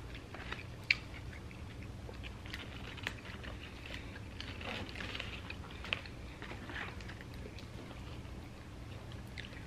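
Close-up mouth sounds of a person chewing animal-style fries, with three short sharp clicks of a plastic fork against the cardboard fry box, about one, three and six seconds in.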